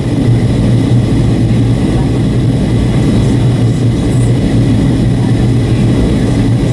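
Steady cabin drone of a Boeing 757-300 in flight on approach: engine and airflow noise with a strong low hum and a faint steady high whine.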